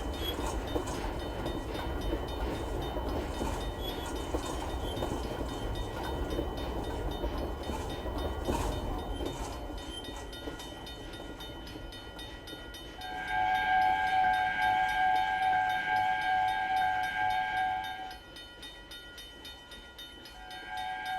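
A train running past with a low rumble and rail clatter that fades over the first ten seconds. Then a train sounds a loud, steady multi-note horn blast lasting about five seconds, and a second shorter blast begins near the end.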